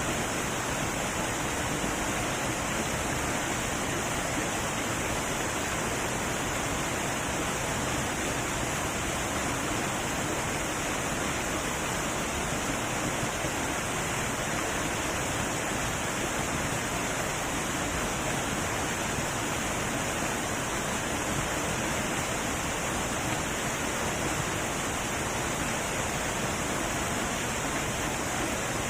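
Heavy waterfall, a steady unbroken rush of falling water.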